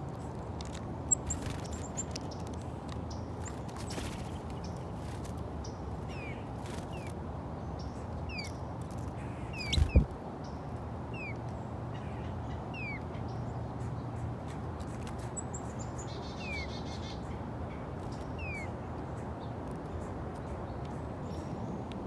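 Small birds giving short, downward-slurred chirps, repeated about once a second through most of the stretch, over a steady low background rumble. A few sharp clicks come in the first seconds, and there is a single loud thump about ten seconds in.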